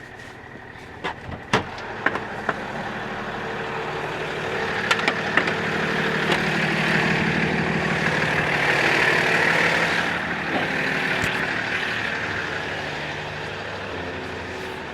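A few sharp clicks, then a heavy truck's engine running, growing louder to a peak partway through and fading again.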